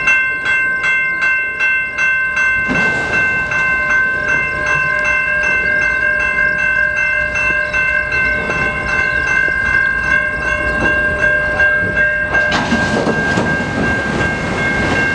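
Mechanical railroad-crossing bell (a Siemens low-pitch bell) ringing steadily, struck about three times a second, over the rumble of a slow-moving freight train. A louder rush of train noise comes in near the end.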